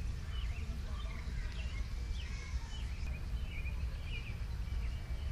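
Small birds chirping, many short calls that sweep up and down, over a low steady rumble.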